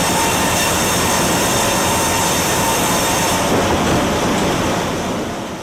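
Sawmill log-line machinery running loudly: a steady rushing, grinding noise with a thin steady whine, cutting in abruptly and fading near the end.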